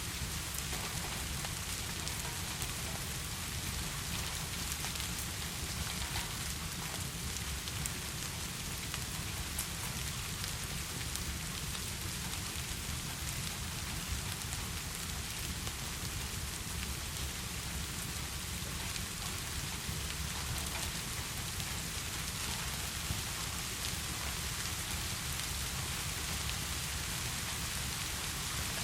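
Steady heavy rain: an even hiss of falling rain with a low rumble beneath it and faint scattered drop ticks, unchanging throughout.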